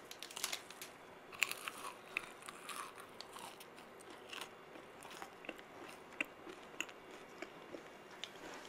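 Close-miked crunching and chewing of a long, sprinkle-coated stick sweet. It starts with a bite, then comes an irregular run of sharp crunches as it is chewed.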